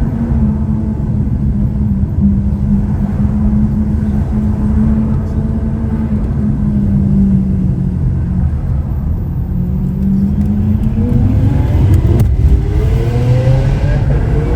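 Lamborghini Aventador SV Roadster's V12 engine running at a steady cruise with a deep rumble, its note sagging a little. It then climbs in pitch over the last few seconds as the car accelerates, with one sharp snap about twelve seconds in.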